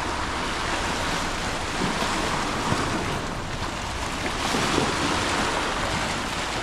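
Ocean waves washing against a rocky shoreline: a steady rushing hiss that swells and eases a couple of times.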